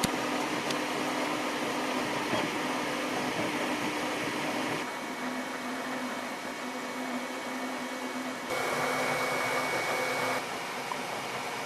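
3D printer running, with steady fan noise and stepper-motor tones that jump to new pitches several times as the moves change.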